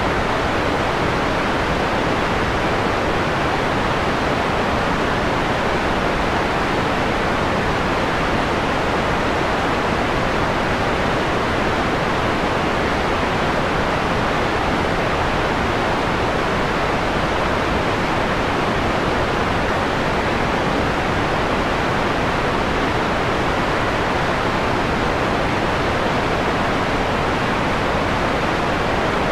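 Steady electronic white noise, part-way through being dimmed from bright to mellow: its top end is rolled off, giving a softer, duller hiss. It does not change.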